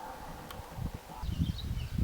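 Small songbirds chirping in short high notes, over an uneven low rumble like wind on the microphone. A single sharp click about half a second in.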